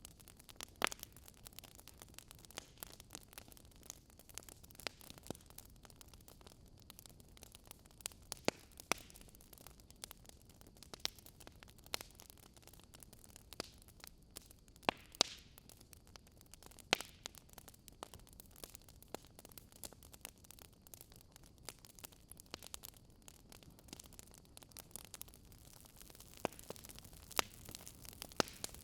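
Logs burning in a fireplace, crackling: irregular sharp pops and snaps, a few louder than the rest, over a faint steady hiss.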